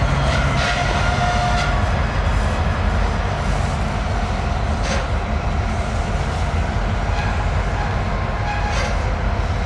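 A train moving slowly through the rail yard: a steady low rumble with faint thin wheel squeal and a couple of sharp clicks, about five and nine seconds in.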